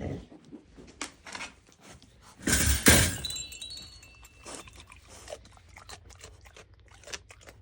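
A pet crate rattling and clanking as a pig is shut in, loudest about two and a half seconds in, with a short metallic ring after. Small clicks and shuffles come before and after it.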